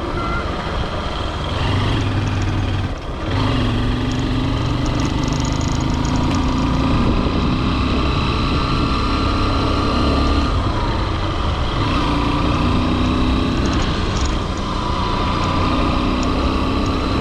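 Honda CRF150L's single-cylinder four-stroke engine running as the motorcycle is ridden, its pitch stepping up and down several times, with a brief dip about three seconds in.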